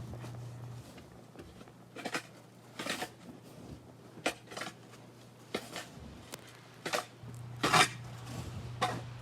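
Snow shovel scraping and scooping snow in short, irregular strokes, about eight in all. A steady low hum underneath drops away from about one second in until about seven seconds in.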